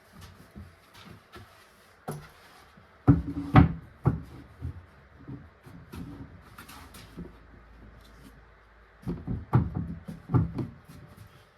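Wooden knocks and clatter as wood is handled and set down: a cluster of sharp knocks about three seconds in and another about nine seconds in, with lighter clicks and rubbing between.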